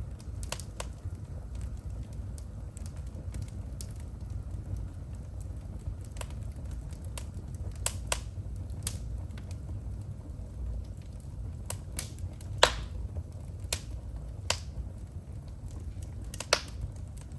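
Wood fire burning in a fireplace: a steady low rumble of flames with irregular sharp crackles and pops, a few louder snaps standing out late on.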